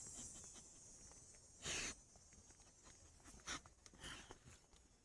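Near silence broken by a few short sniffs from a dog nosing along the ground, the loudest about two seconds in.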